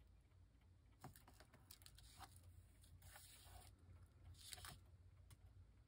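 Faint scattered taps and short rustles of paper being handled and pressed down while a loose corner is fixed.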